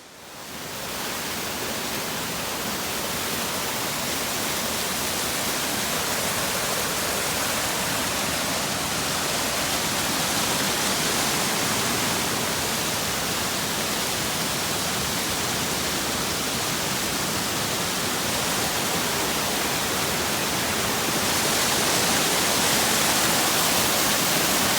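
Rushing water, a loud steady hiss that swells in at the start and grows a little louder near the end.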